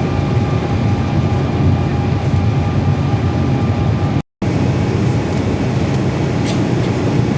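Cabin noise of an Airbus A320 in its climb: a steady low roar of the jet engines and airflow, with a faint steady whine above it. The sound cuts out for a split second about four seconds in.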